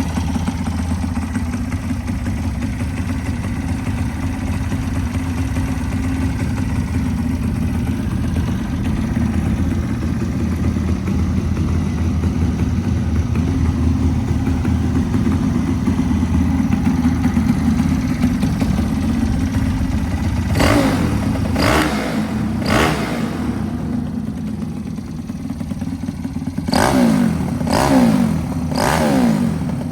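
Honda Shally's single-cylinder four-stroke engine running through a one-off steel-pipe exhaust, idling steadily for about twenty seconds. Then come short throttle blips: three in quick succession, a pause, then four more near the end.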